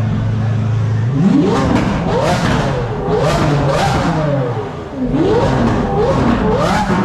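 Car engine idling, then revved hard several times in quick succession, the pitch climbing and dropping with each blip of the throttle from about a second in.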